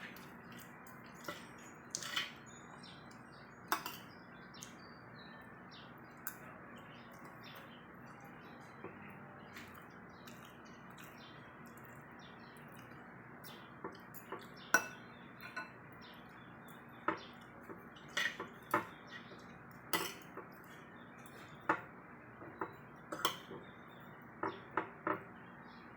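Spoon and fork clinking and tapping against a plate while eating, in scattered sharp clicks that come more often in the second half, over a faint steady hum.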